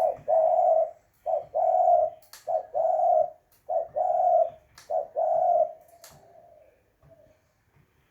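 Spotted dove (terkukur) cooing close to the microphone: five two-part coos, each a short note running into a longer held one, about a second apart, then it stops about six seconds in.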